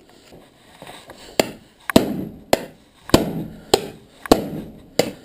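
Hammer blows: about seven sharp, evenly spaced strikes, a little over half a second apart, starting about a second and a half in.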